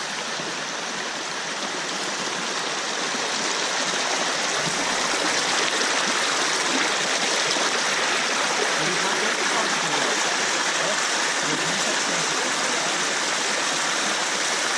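Waterfall rushing steadily, a dense hiss of falling water that grows a little louder over the first few seconds and then holds.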